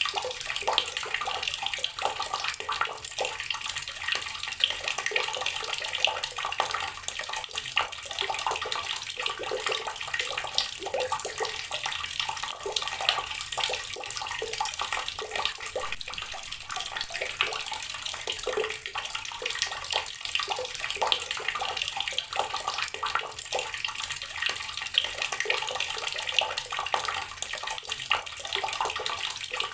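Water from a tap running steadily and splashing onto rocks, in a continuous stream with dense, irregular splashes.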